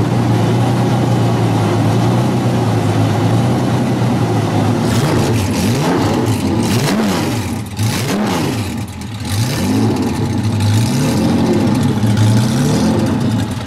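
Falconer V12 engine idling through its side-pipe exhausts, then blipped up and let fall back repeatedly, starting about five seconds in.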